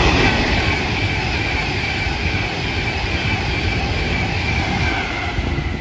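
Class 390 Pendolino electric train passing through at speed: a loud, steady rush of wheels and air, loudest at the start and easing slightly, with a faint high whine drifting gently down in pitch.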